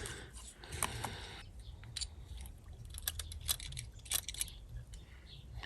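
Small metal carburettor parts being handled, the pilot jet among them: scattered light clicks and taps, with a quick run of them between about three and four and a half seconds in.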